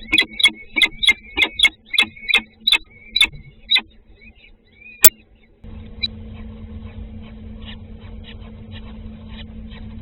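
Nestling birds chirping rapidly, about four short calls a second, in the kind of begging chorus chicks give when fed; the calls stop about four seconds in. After a sharp click, a steady low hum comes in abruptly around the halfway point, with faint chirps over it.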